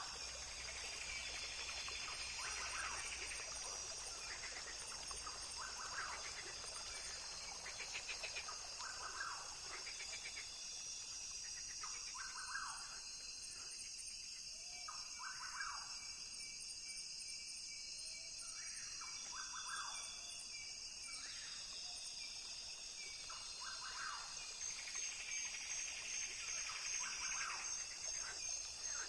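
Rainforest ambience: a steady high-pitched insect drone, with scattered short bird calls every second or two.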